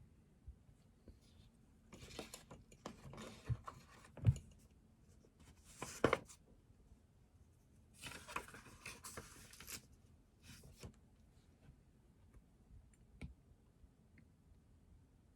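Desk sounds while studying: paper rustling and being handled in three short spells, with scattered light clicks and taps between them.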